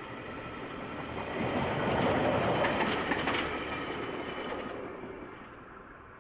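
A KiwiRail train passing by, picked up by a security camera microphone. The sound builds, is loudest about two to three and a half seconds in with wheels clicking over the rail joints, then fades away.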